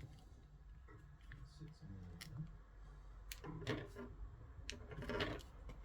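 Small parts being handled at a work surface: scattered light clicks and plastic clatter, with two louder bouts of rustling and knocking about three and a half and five seconds in.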